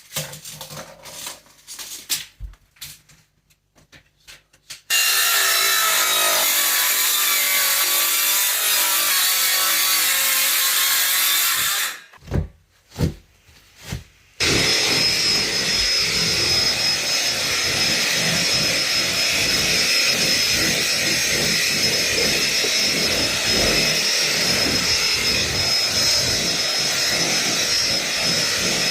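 A power tool running in two long stretches, about seven seconds and then about fourteen, with a short break and a few knocks between them; a steady high whine runs through the second stretch.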